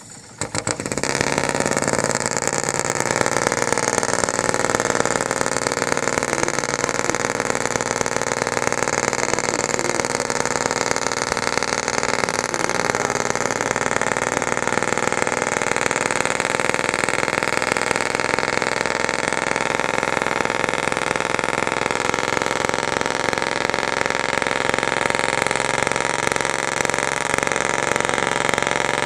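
Fiberglass fishing boat's engine coming up to speed about a second in, then running steadily at a constant pitch.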